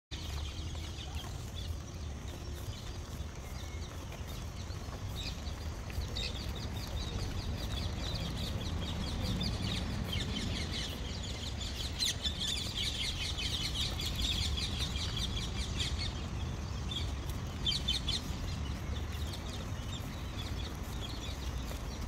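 Many birds chirping and chattering in quick runs of high notes, busiest about halfway through, over a steady low rumble.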